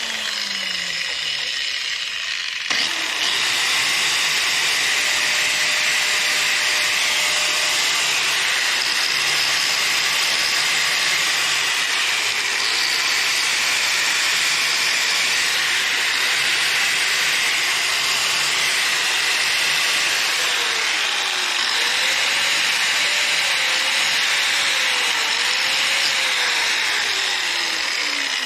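Electric grinder running continuously against steel, grinding a bare spot for the welder's ground clamp. It gets louder about three seconds in.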